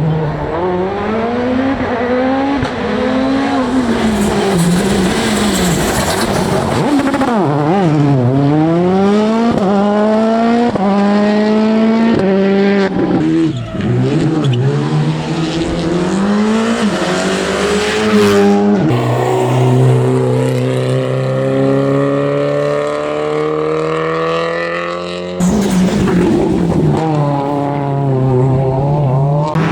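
Rally cars at full attack, engines revving hard and dropping back through quick gear changes, with cars passing close and their engine note falling as they go by. Several cuts between cars.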